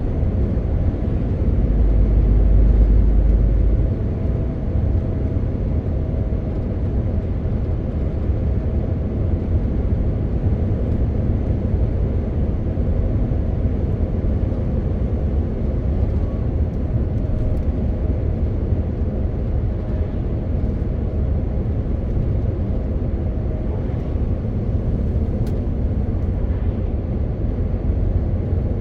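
MAN TGX 18.520 truck's straight-six diesel engine and tyres: a steady low drone of the truck being driven, with faint steady engine tones. About two seconds in, a heavier low rumble swells for a couple of seconds.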